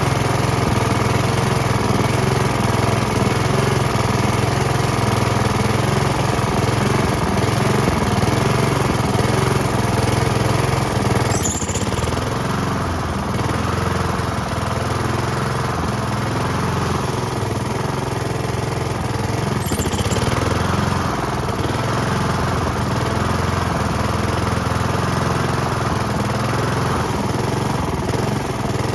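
Honda HRX217 walk-behind mower's single-cylinder engine running steadily with its freshly cleaned carburettor, its note easing slightly about twelve seconds in.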